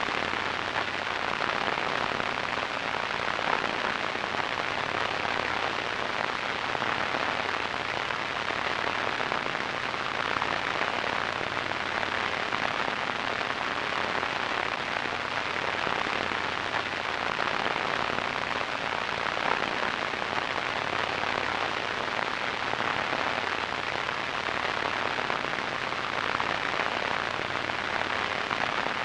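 Radio static: a steady, even hiss with no breaks, strongest in the middle range.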